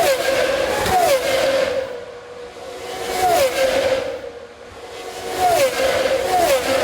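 Racing cars going past on the circuit, their engines pitched high with repeated quick downward steps in pitch. The sound fades twice between cars and swells again as the next ones arrive.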